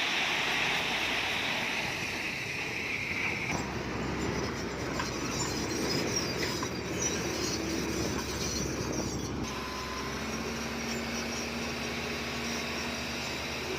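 Komatsu D20P crawler bulldozer working: its diesel engine running steadily with the clatter of its steel tracks. A high squeal sounds over it for the first few seconds, and a steady low engine hum comes up about ten seconds in.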